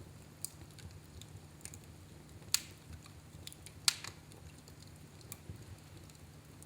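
Wood fire in a fireplace crackling, with scattered small snaps and two sharp louder pops, about two and a half and four seconds in, over a low steady rumble.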